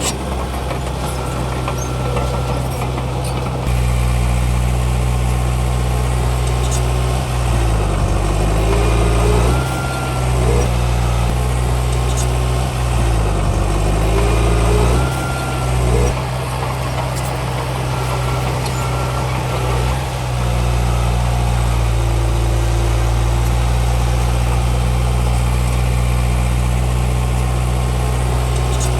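Heavy diesel earthmoving machinery running steadily, its engine note dipping and recovering several times in the middle as it takes load.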